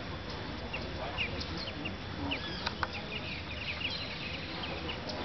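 Many birds chirping and calling in short, quick notes, thickest about two to three seconds in, over a steady background hiss.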